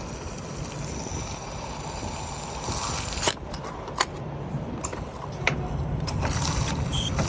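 Diesel pump nozzle topping off a semi truck's fuel tank after the automatic shut-off, over a steady low rumble, with a few sharp clicks from about three seconds in.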